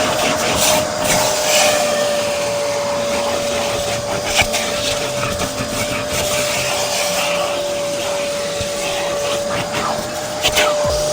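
Vacuum cleaner running steadily with a constant whine, with occasional knocks and rubbing from the nozzle.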